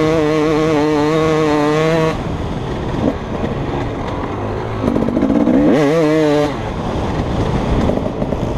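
2015 KTM 250 SX single-cylinder two-stroke motocross engine at high revs, backing off about two seconds in. It runs rough and quieter off the throttle, then revs up hard again with a rising note around five seconds in, and backs off once more.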